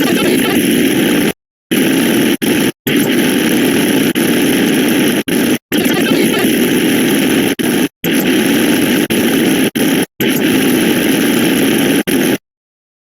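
A dense, harsh pile of many overlapping synthetic sound effects blurred into one continuous noisy din. It drops out abruptly to silence for brief moments several times, then cuts off about twelve and a half seconds in.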